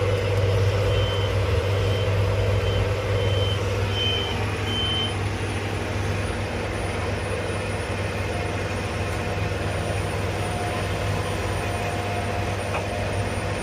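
Heavy machine's engine running steadily, with a high-pitched warning beeper repeating about once or twice a second that stops about five seconds in.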